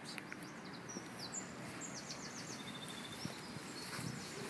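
Birds singing: a few short high chirps, then a brief trill about two and a half seconds in, over quiet outdoor background noise.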